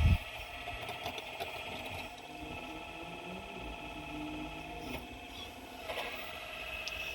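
Excavator's hydraulic pump running with a steady whine and little low rumble, with a small knock about six seconds in.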